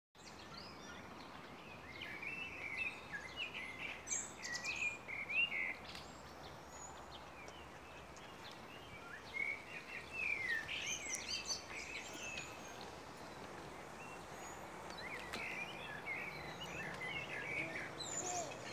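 Songbirds singing in quick chirping phrases that come in three spells, over a steady background hiss.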